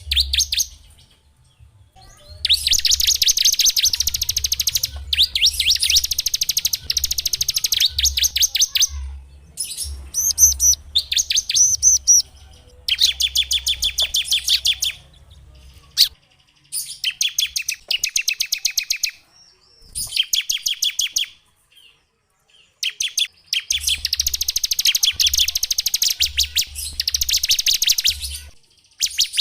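Small songbird singing rapid, high-pitched trills in phrases of one to three seconds, separated by short pauses, with a low hum underneath for much of it.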